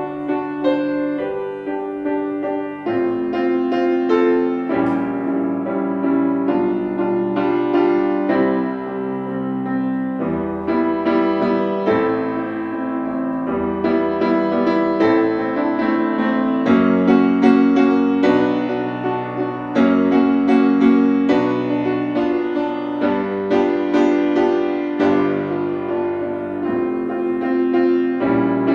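Solo acoustic piano playing a classical piece, with full chords struck one after another at a fairly even pulse.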